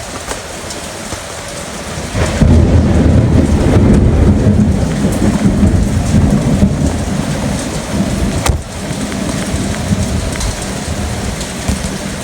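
Heavy rain falling steadily, with a long roll of thunder that swells in about two seconds in and rumbles on for several seconds before easing, and a sharp crack of thunder about eight seconds in.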